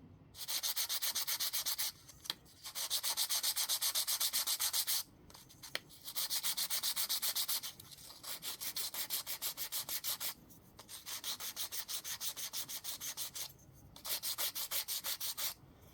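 Sandpaper scraping over small wooden blocks in quick, even back-and-forth strokes, taking old glue and fabric residue off the wood. The strokes come in six runs of one to three seconds with short pauses between.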